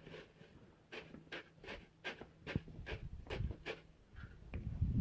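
A hand tool scraping over concrete in a run of quick, short strokes, about three a second, over a faint steady hum.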